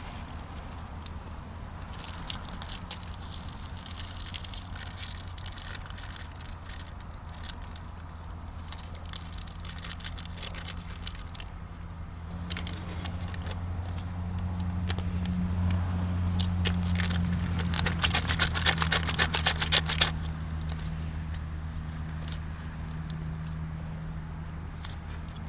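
Campfire crackling with scattered sharp pops and clicks, over a steady low engine-like hum that grows louder in the middle and drops back after about twenty seconds.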